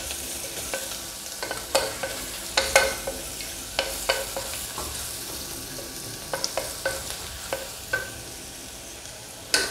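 Onions and masala powder frying in oil in an open pressure cooker, with a steady faint sizzle. A wooden spatula stirring and knocking against the pot at irregular moments. This is the masala being sautéed until its raw smell cooks off.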